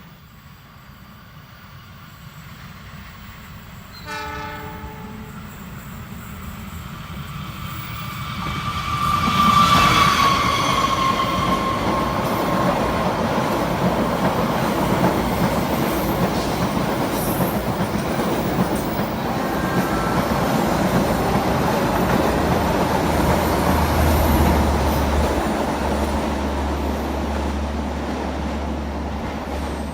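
A train approaching and passing: a short locomotive horn blast about four seconds in, a louder horn blast near ten seconds that drops slightly in pitch as it goes by, then the steady rumble and clatter of the long train passing.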